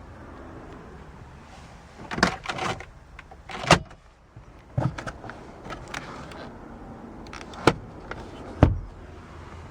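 A series of sharp knocks and clunks, about seven in all, from the minivan's body and interior fittings being handled; the loudest come near four seconds in and near the end.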